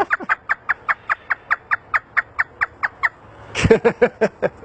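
African grey parrot imitating a hysterical laugh: a fast run of short, high, falling 'ha' notes, about five or six a second, then a louder burst of laughing near the end.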